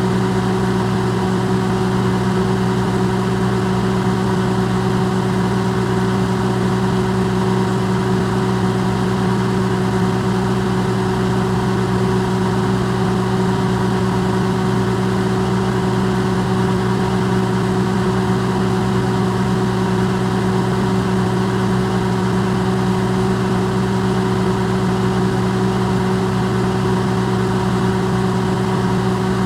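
Electrolux microwave oven running, recorded amplified and close up. It makes a steady, unchanging hum with a strong low drone and a few fainter steady tones above it.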